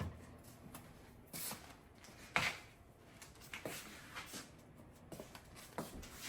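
Scattered light knocks and clicks of things being handled and set down in a kitchen, about seven in all, the loudest a little over two seconds in.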